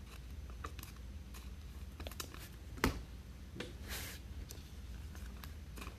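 Trading cards being handled and flipped one after another: light scattered clicks and slides, with one sharper click about three seconds in, over a low steady hum.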